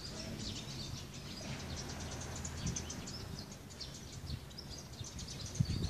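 Small birds chirping over and over in short high calls, over a low steady rumble, with a thump about a second before the end.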